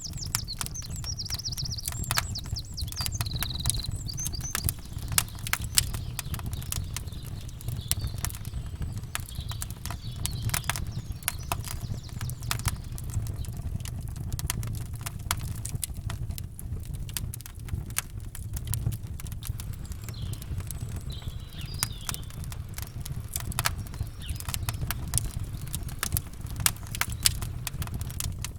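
Campfire crackling and popping, with a steady low rumble underneath. Birds chirp briefly about a second in and again about twenty seconds in.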